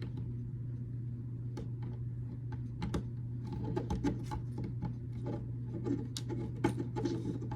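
Small plastic building bricks being handled and pressed together: irregular light clicks and rubbing as pieces are fitted, over a steady low hum.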